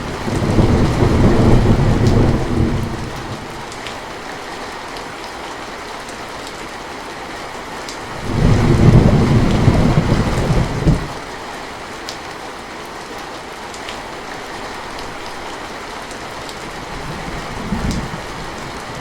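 Steady rain falling, with thunder rumbling twice: once just after the start and again about eight seconds in, each roll lasting about three seconds. A fainter, shorter rumble comes near the end.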